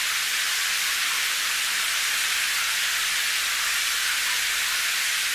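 Steady, unbroken hiss of rain, even and high-pitched, with little low rumble and no separate drops standing out.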